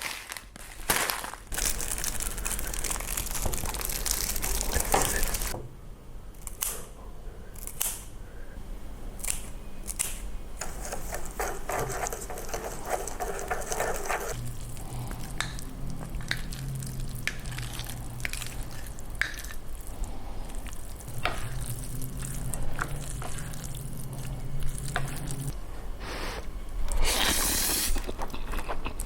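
Wet instant-noodle preparation sounds: liquid splashing and dripping, and squishy stirring of noodles, with scattered clicks. A steady low hum runs for about ten seconds in the middle.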